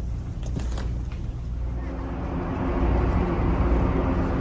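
Low rumble of a train running, with a steady hum and hiss growing louder about halfway through.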